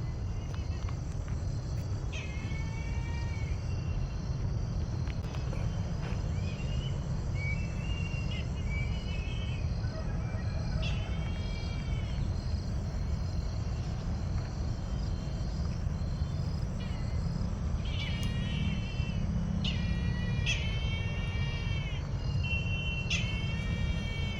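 A bird calling in short, repeated calls, some bending down in pitch and some in quick runs, scattered through the stretch and more frequent in the second half. A steady insect chirring and a low rumble run underneath.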